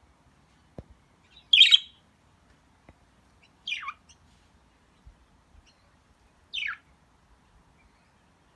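Budgerigars chirping: three separate calls, a loud chirp about a second and a half in, then two shorter calls that slide down in pitch.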